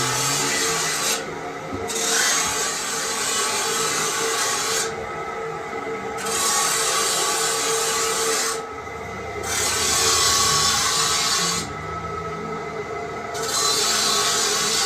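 Repeated rasping strokes of a hand file working metal on a running lathe, each stroke one to three seconds long, about five in all, over a steady machine hum.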